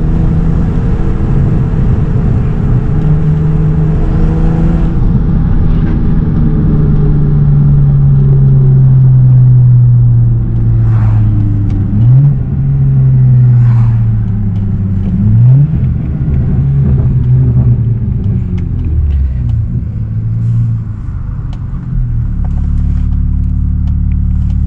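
BMW E92 335i's twin-turbo straight-six, fitted with upgraded turbos and downpipes, driving under light load as heard from the cabin. The engine note slowly sinks, then rises sharply twice in quick bursts of revs about twelve and fifteen seconds in, and settles into a lower steady drone near the end.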